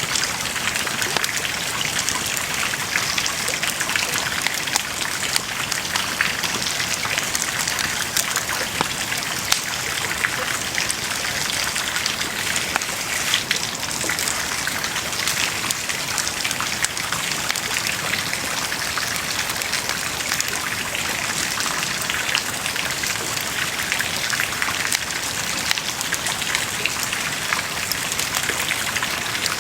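Wood bonfire burning with a steady hiss and dense, irregular crackling, many small sharp pops.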